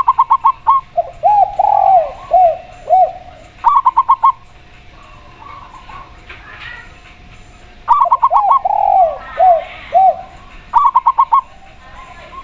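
A zebra dove (perkutut) and a spotted dove (tekukur) calling in turn. Short runs of about five quick, higher cooing notes come four times, and after the first and third of these comes a lower series of drawn-out, arched coos.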